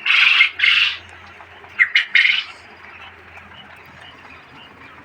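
Japanese quail calling in their pen: two short harsh calls at the start and another burst about two seconds in, then quieter.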